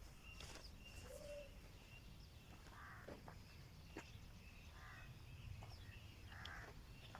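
Faint bird calls: short high chirps and three short harsh calls about a second and a half apart, over a low background rumble.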